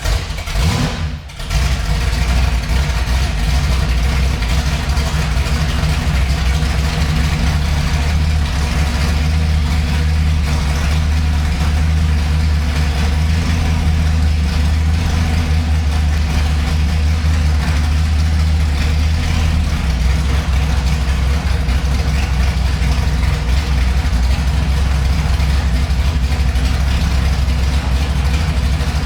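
1967 Ford GT40 G7A Mark IV conversion's V8 engine cold-starting. It catches within about the first second and a half, then runs on steadily at idle.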